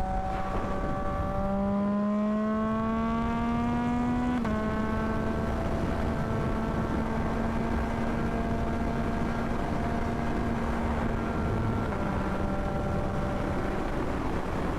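Yamaha MT-09's inline-three engine pulling under acceleration, its pitch climbing, then an upshift about four and a half seconds in drops the revs and it settles to a steady cruise, easing slightly near the end. Wind and road noise rush beneath it.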